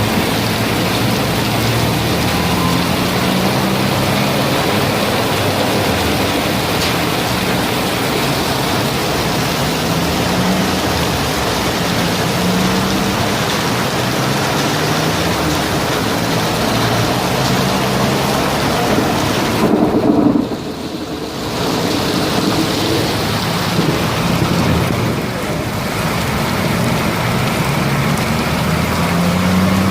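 Heavy rain pouring down, a loud steady hiss, with a faint low hum underneath; the rain briefly drops in loudness about twenty seconds in.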